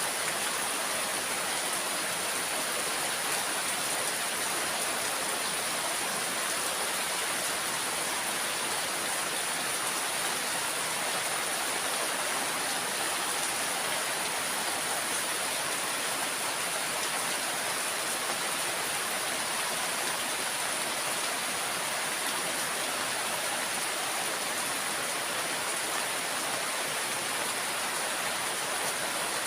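Steady rainfall, an even unbroken hiss with no let-up, with a thin steady high-pitched tone running through it.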